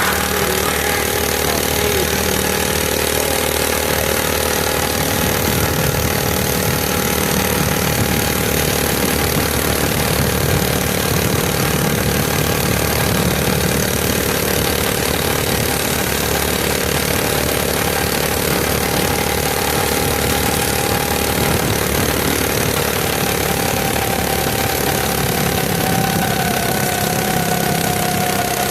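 Mini bike's small engine running at a steady speed, its pitch easing down slightly near the end.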